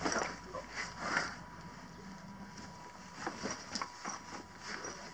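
A large backpack stuffed with collected litter being hoisted onto a man's back: a few loud rustles and knocks in the first second or so, then softer rustling and bumping of the pack and its straps.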